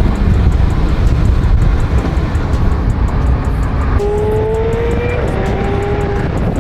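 McLaren 720S Spyder's twin-turbo V8 running under way, a heavy low rumble mixed with road noise. About four seconds in the sound changes abruptly, and the engine's pitch rises briefly before stepping down, as in an upshift.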